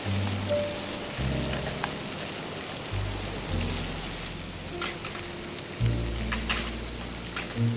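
Food sizzling and frying in a pan, with a few sharp clicks in the second half. Background music with a bass line plays underneath.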